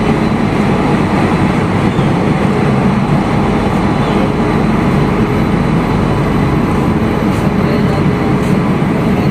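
Passenger train running on rails, a loud, steady rumble.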